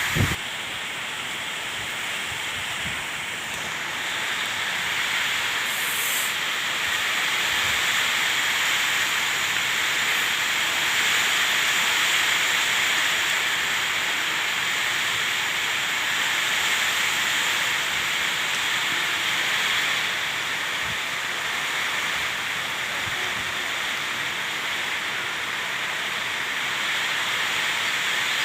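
Steady rushing hiss of water, growing a little louder about four seconds in.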